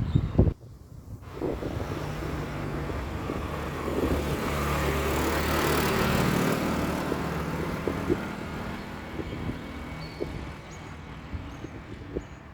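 A motor vehicle driving past, its engine and tyre noise building to loudest about halfway through and then fading away.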